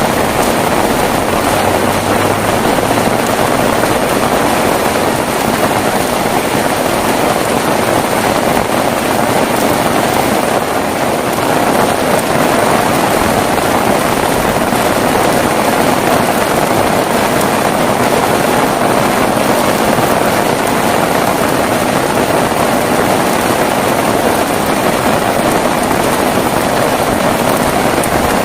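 Heavy rain pouring steadily, a loud, even rushing hiss with no thunder.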